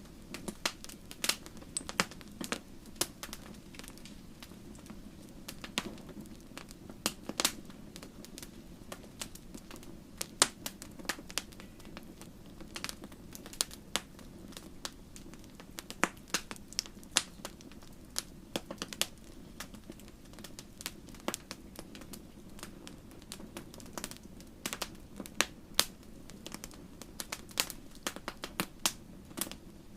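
Wood fire crackling in a fireplace: irregular sharp pops and snaps, several a second at times, over a steady low hiss of the flames.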